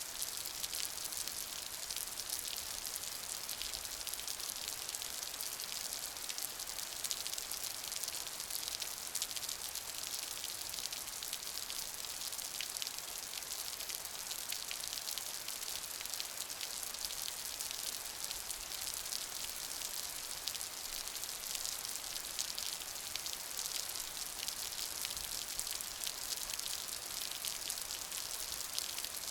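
Steady rain falling: a dense, even patter of many drops striking a surface.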